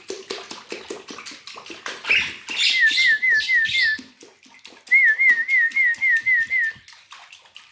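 A clear whistle repeated in a quick rising-and-falling pattern, in two runs of about five and then seven notes, over a rapid patter of small clicks.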